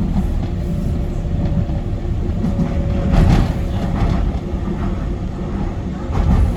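Docklands Light Railway train running along the track: a steady low rumble with a faint steady whine, and a louder jolt about three seconds in and again near the end.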